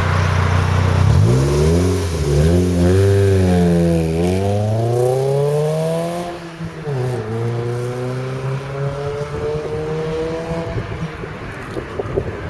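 An engine running with its pitch wavering up and down, then climbing steadily, dipping once and climbing again before it fades into a rough rumble near the end.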